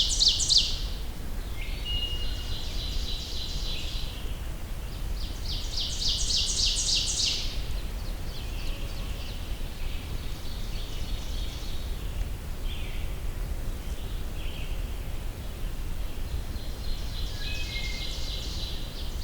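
Black-throated green warbler singing: a high song of quickly repeated notes about a second and a half long, heard about 6 seconds in and again at the end, with fainter songs of other birds in between over a steady low background noise.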